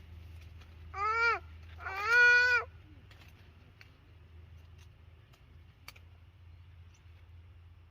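Cat meowing twice, a short meow and then a longer one, over a low steady hum.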